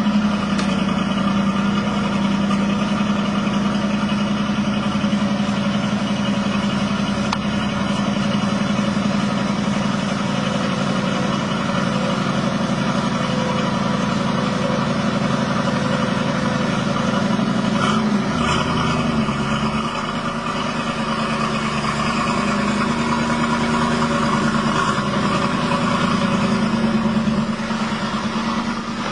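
Eleanor Mustang's V8 idling steadily through its exhaust, with a brief wavering shift in its note about two-thirds of the way through.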